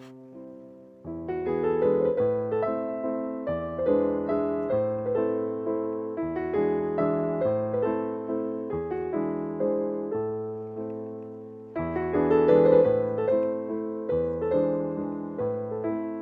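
Background piano music: a steady melody of notes that fade after each strike, over lower bass notes. It picks up about a second in, and a louder phrase begins about three quarters of the way through.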